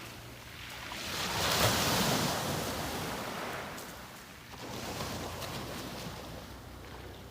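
Waves breaking and washing up the shore: one wave crashes about a second and a half in, and a smaller one follows about five seconds in.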